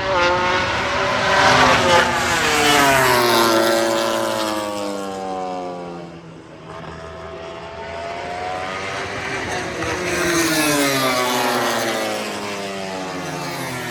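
MotoGP race motorcycles passing at speed, their engine note falling in pitch as each goes by. There are two pass-bys, the second about ten seconds in.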